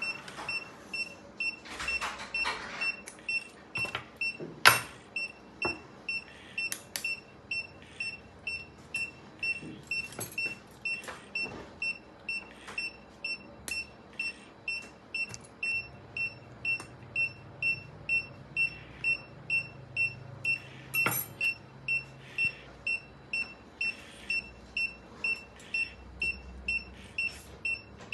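Veterinary anaesthesia monitor giving a short, high pulse beep about twice a second, each beep marking a heartbeat of the anaesthetised cat. A few sharp clicks and clinks sound in between, the loudest about five seconds in.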